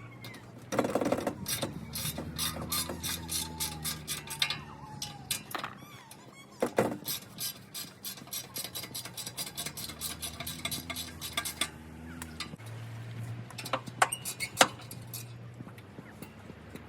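Ratchet wrench clicking rapidly in long runs while undoing the exhaust fixings on a Mazda MX-5, with a few louder metal clanks over a low steady hum.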